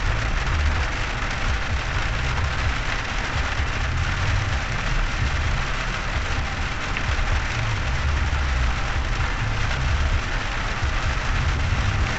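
Steady rain falling on a car's roof and windshield, heard from inside the cabin, over the low rumble of the car driving on a wet road.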